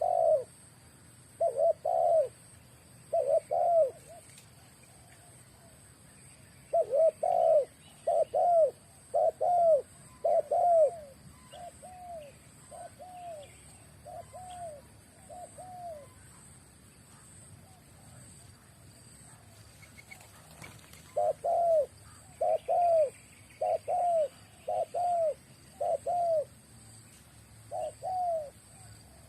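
Young spotted dove cooing: repeated low, arching coo notes in three bouts, with a long run of about a dozen notes in the middle and another run near the end.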